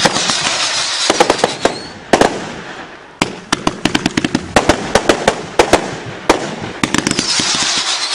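Fireworks going off in quick succession: many sharp bangs in rapid runs, with a hissing crackle near the start and again near the end.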